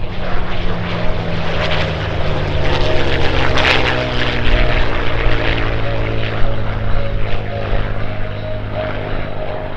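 A piston-engined, propeller-driven warbird flying a pass. Its engine note drops in pitch as it goes by, loudest about three and a half seconds in, then carries on steadily at the lower pitch as it flies away.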